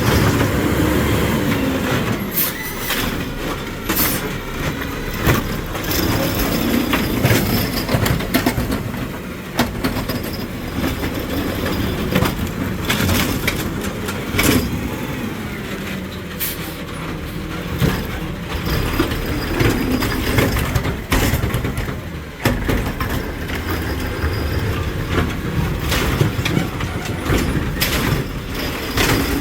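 Garbage truck at work: its diesel engine running with a rising and falling hydraulic whine, and repeated loud clanks and bangs of metal.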